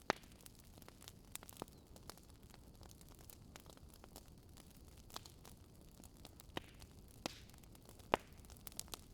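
Campfire crackling: a low steady hiss of burning with sharp pops scattered irregularly, the loudest just after the start and about eight seconds in.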